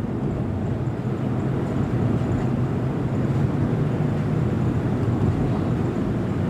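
Steady low rumbling background noise with no distinct events, cutting off abruptly at the very end.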